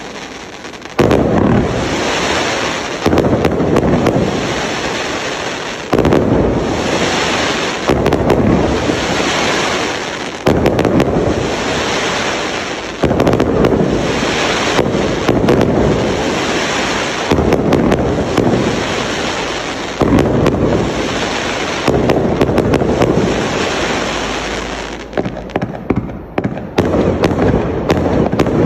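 Multi-shot display cake of fireworks firing: a loud burst about every two to three seconds, each dying away before the next, with a quick run of sharp cracks near the end.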